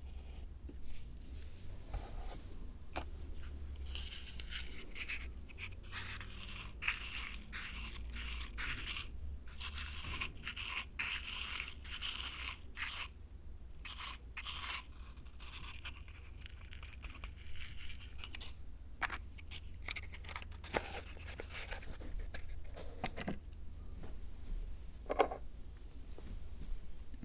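Scraping and rustling of small-scale hand work on a miniature Zen dry-garden diorama, in bouts, with scattered light clicks and taps.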